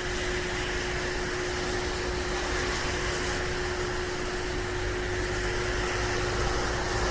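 Inside a standing 415 series electric train car: the steady hum of the onboard equipment and air conditioning, with one constant tone. A low rumble grows stronger from about halfway through.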